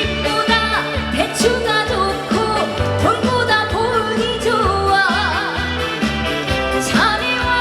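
A woman singing a Korean trot song live over loud accompaniment with a steady bass and beat. Her voice wavers with vibrato on a held note about five seconds in.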